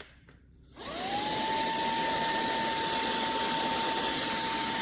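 TANYO cordless handheld wet/dry vacuum cleaner switched on a little under a second in: the motor spins up with a rising whine, then runs steadily with a high whine over the rush of air.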